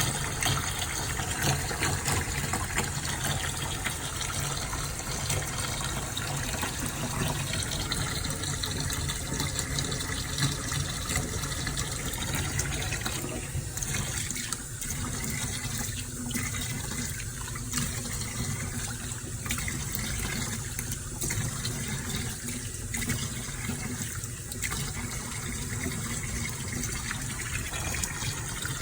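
Tap water running steadily and splashing during a kitten's bath; about halfway through the flow becomes more broken and uneven.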